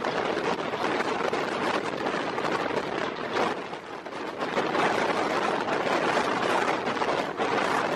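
Rushing wind and rumbling of a moving train heard from its open doorway, mixed with the clatter of a passing double-stack container train. The sound dips briefly about halfway through as the container wagons end, then returns to a loud, steady rush.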